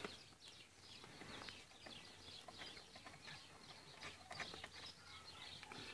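Near silence, with faint scattered bird chirps in the background.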